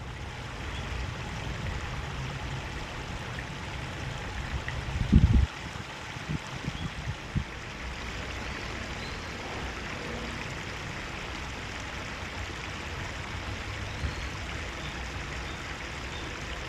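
Steady rush of flowing stream water. About five seconds in there is one loud low thump, followed by a few smaller low bumps over the next couple of seconds.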